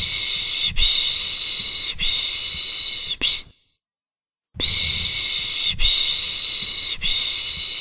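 A person's 'pış pış' shushing: long breathy hisses about a second each, in runs of three or four with about a second's pause between runs. It is the rhythmic shushing used to lull a baby to sleep.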